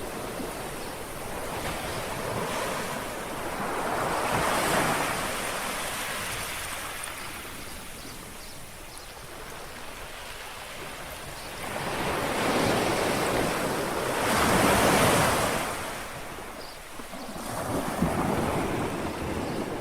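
Calm sea waves lapping on a shore in slow, gentle surges of wash that swell and fall away. The loudest surge comes about fifteen seconds in.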